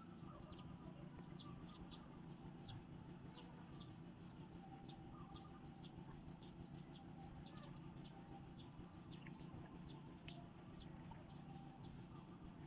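Faint small birds chirping, short high chirps a couple of times a second at irregular intervals, over a low steady rumble.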